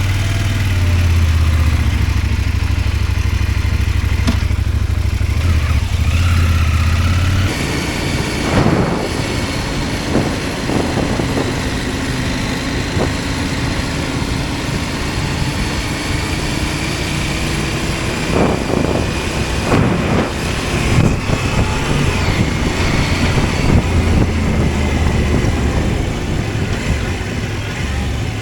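CFMOTO 800MT motorcycle's 799 cc parallel-twin engine running steadily at low revs, then pulling away about seven seconds in. The engine revs rise and fall through gear changes, with wind noise over the microphone.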